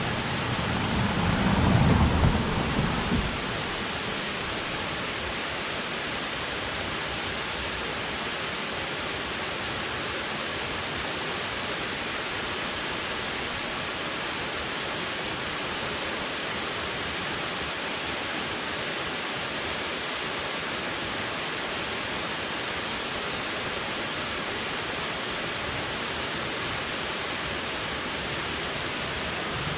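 Steady rushing of river water flowing and falling below a dam, an even unbroken hiss. A louder low rumble swells and fades over the first three seconds or so.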